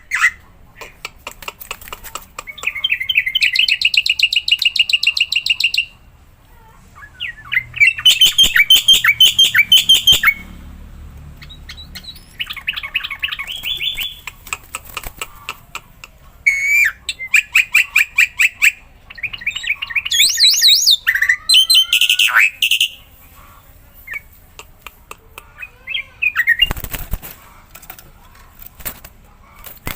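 A black-winged starling (jalak putih) singing in full song: loud bouts of rapid, repeated chattering notes lasting a few seconds each, with short pauses between. Some rising whistled calls come about two-thirds of the way through.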